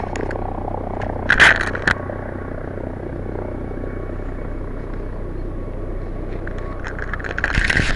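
Helicopter hovering at a distance, a steady rumble. Brief bursts of crackly rustling from the microphone being handled come about a second and a half in and again near the end.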